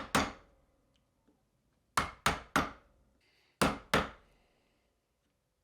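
Mallet blows driving a chisel into the canary wood plane body, chopping waste out of the blade opening: six sharp strikes, one near the start, then a quick run of three, then two more.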